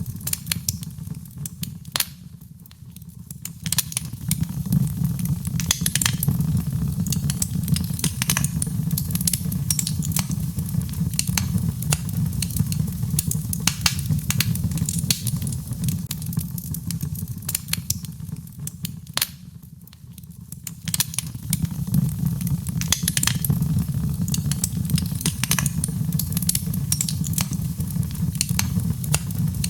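Birch logs burning in a fireplace: frequent sharp crackles and pops over a low, steady rumble of the flames. The crackling eases off briefly twice, a couple of seconds in and again about two-thirds of the way through.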